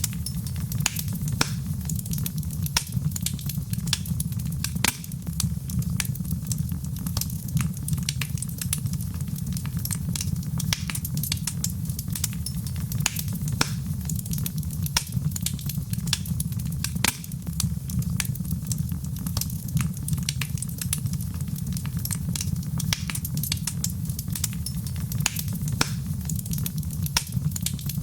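Fireplace fire crackling, with frequent irregular sharp pops over a steady low rumble of the flames.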